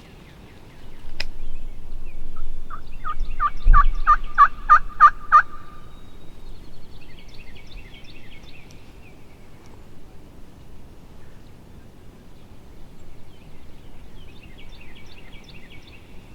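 Wild turkey calling: a loud series of about nine evenly spaced yelps, followed by two fainter, rapid rattling gobbles later on.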